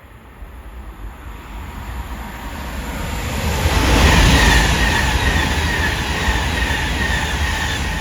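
A train running past, getting louder over the first four seconds, with a steady high-pitched whine over a deep rumble in the second half.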